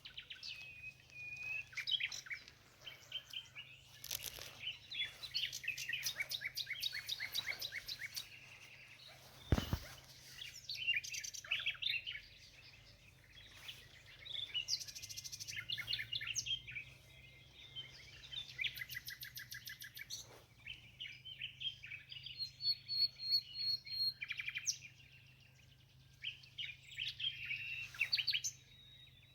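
Several small songbirds singing and chirping, with overlapping rapid trills and short repeated calls throughout. A single low thump about ten seconds in.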